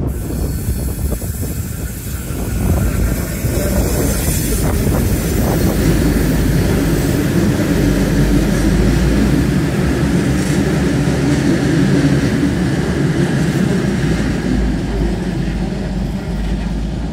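Comeng electric suburban train running past on the tracks, a steady low rumble and wide noise that builds over the first few seconds, holds, and eases a little near the end.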